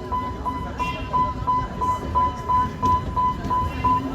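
Level-crossing warning alarm beeping steadily, about three electronic beeps a second, over the low rumble of a passing train.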